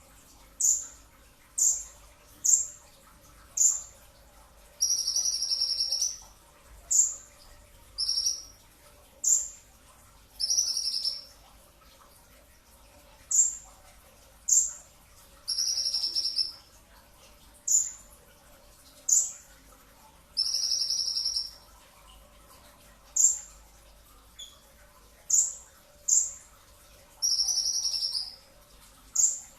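Kolibri ninja (purple-throated sunbird) singing in its two-stroke style. Short, sharp, high chips come about once a second, and a longer buzzy trill of about a second breaks in every five seconds or so.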